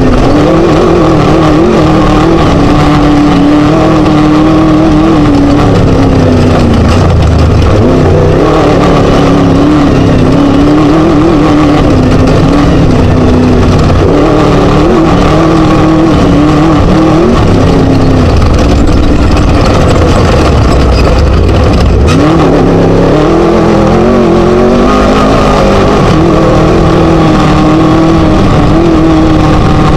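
Scat V4 engine of a Chenowth DR2 Class 1 desert race buggy running hard and very loud, its revs dropping and climbing again a few times as the driver lifts and gets back on the throttle.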